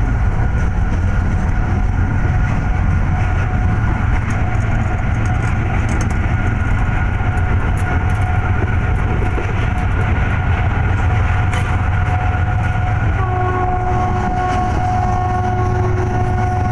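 Passenger train running at speed, about 110 km/h, heard from the coach coupled directly behind its diesel locomotive: a loud, steady running noise with a deep rumble and a steady whine through it. Another steady tone joins near the end.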